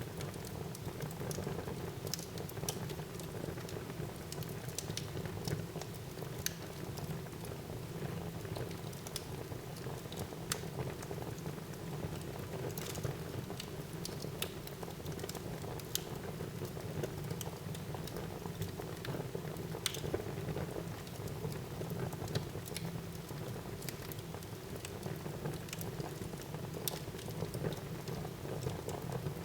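Wood fire burning in a fireplace: a steady low rush of flame under irregular sharp crackles and pops from the burning logs.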